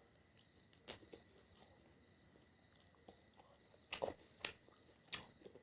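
Quiet eating sounds: a few short, sharp smacks and clicks of chewing, one about a second in and three more close together near the end.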